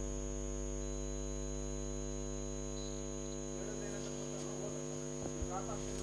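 Steady electrical mains hum with a thin high-pitched whine above it, with faint voices in the background during the second half.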